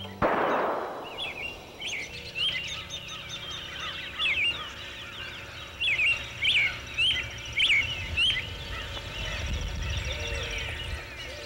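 A sharp crash right at the start that dies away over about a second, then many short chirping bird calls, loudest in a quick run of calls about six to eight seconds in, over a low background rumble.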